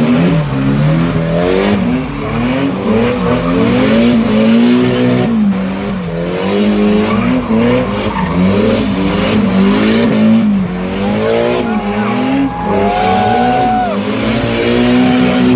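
Car engine revving hard and dropping back over and over, about once every second or so, with tires squealing on pavement.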